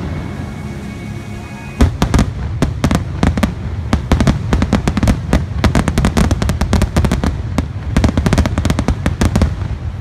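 Rapid barrage of firework bursts, several sharp bangs a second, starting about two seconds in and easing off near the end, over the fireworks show's music.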